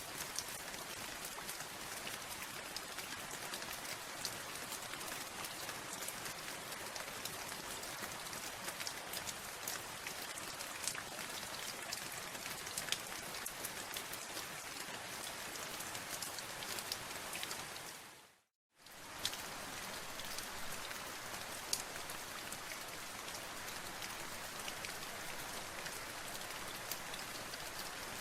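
Steady rain with many separate drops landing, an even hiss speckled with small clicks. About two-thirds of the way through it fades out to silence for under a second, then fades back in.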